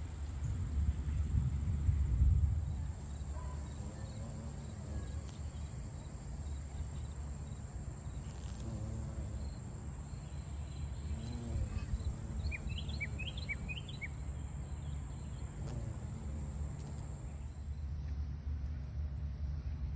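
Outdoor garden ambience: a steady high insect drone over a low rumble. A quick run of short high chirps comes about two-thirds of the way through.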